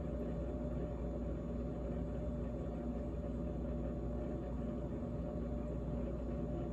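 GE GTH18XCTZRBB refrigerator running: a steady, even hum with a few steady tones in it.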